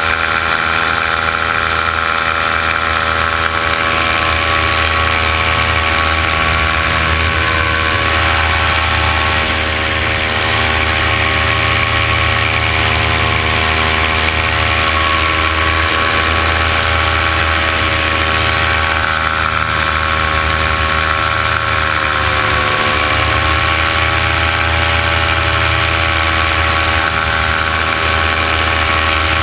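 Multirotor drone's motors and propellers whining steadily, with a brief dip and rise in pitch about three-quarters of the way through.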